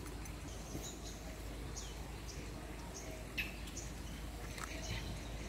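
Birds chirping outdoors: a scattering of short, high chirps over a low steady background noise.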